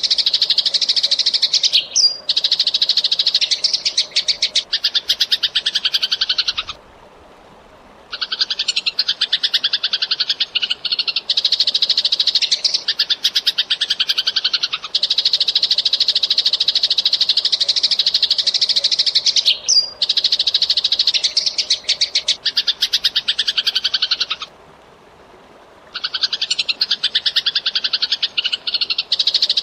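Eurasian tree sparrow chirping in fast, tightly packed runs of calls, in long bouts broken by two short pauses, one about seven seconds in and one near the end. The same sequence comes round again about every 18 seconds, like a looped recording.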